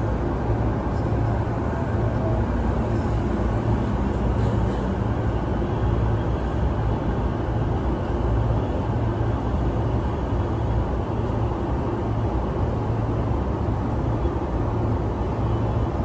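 Running noise of a Sotetsu 12000 series electric train: a steady rumble of wheels on rail, with a faint high whine in the middle.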